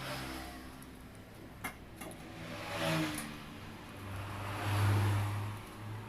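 Vehicles passing by, heard as three swells of engine and road noise that rise and fade, the last the loudest, with one sharp click about a second and a half in.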